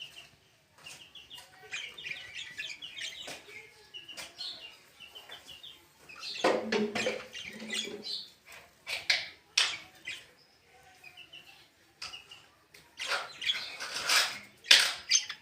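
Small pet birds chirping in quick runs of short, high notes, with louder bursts of wing flapping and scuffling twice.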